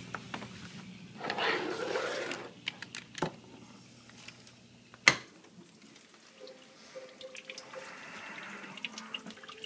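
GE Monogram dishwasher with water trickling and dripping and a few small clicks from handling. A sharp loud click about five seconds in, when a low hum stops.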